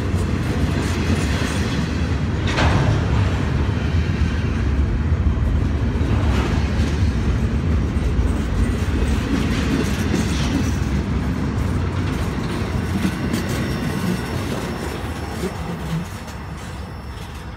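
Steel wheels of double-stack intermodal well cars rolling past on the rails: a steady low rumble with a few sharp knocks. It fades near the end as the last car goes by.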